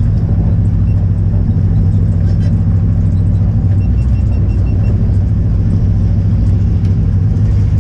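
Race car engine running steadily at idle, a loud, even low drone. A faint series of short beeps sounds about four seconds in.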